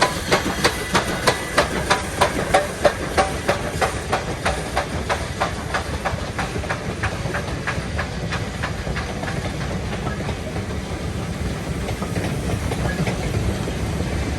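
Heritage steam train running past with a regular beat of about three to four a second, over a steady rumble and hiss. The beat is strongest at first and fades out about halfway through, leaving the rumble.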